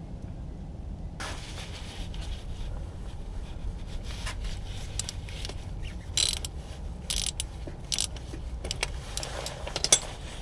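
Metal hand tools clicking and scraping as the oil filter on a Ford 5.0L Coyote V8 is worked loose: a ratchet-like clatter with a handful of sharp clicks in the second half, the loudest near the end.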